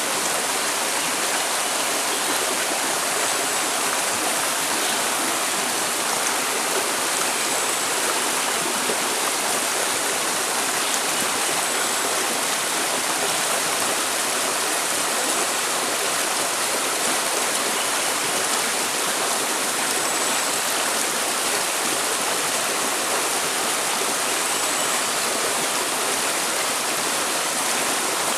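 Steady rushing of flowing water, like a stream or small waterfall, with a few faint, short, high whistles now and then.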